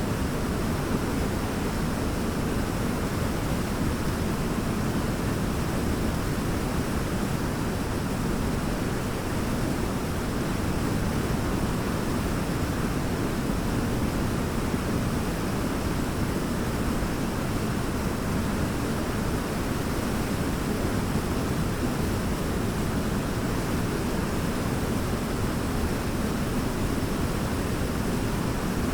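Large waterfall: a steady, unbroken rush of falling water, deepest and strongest in its low rumble.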